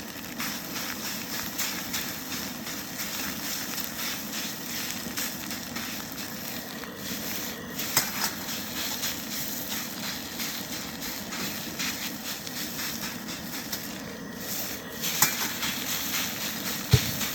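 Snow Peak Gouen high-output gas burner running steadily under a wok while rice sizzles and crackles in the oil as it is stir-fried, the rice still in hard clumps. A few sharp clicks of the spatula against the wok stand out, about eight seconds in and twice near the end.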